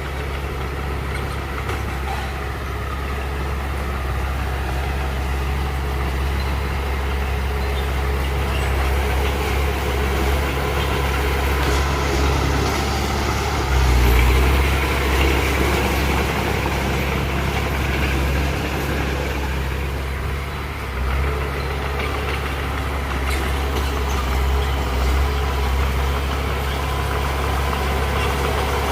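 Heavy diesel engine of earthmoving machinery running steadily, growing louder for a moment about halfway through.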